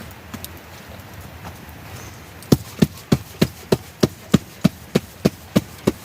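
A steady run of sharp knocks, about three a second, starting about two and a half seconds in, each with a solid low thud.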